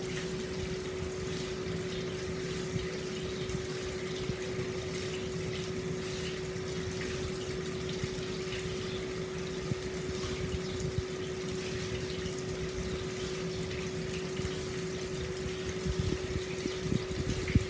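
Hot spring water pouring steadily into an open-air stone bath, a continuous splashing flow with a constant low hum beneath it. The flow turns choppier and a little louder near the end.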